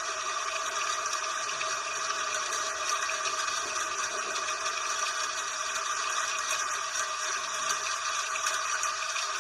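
Steady rain, an even hiss with fine pattering.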